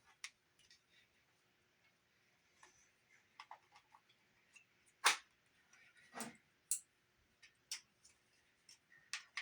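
Scattered sharp clicks and knocks from the keys and mechanism of a Sony TC-50 portable cassette recorder being pressed and handled, the loudest about halfway through. The untested recorder does not appear to spin the tape.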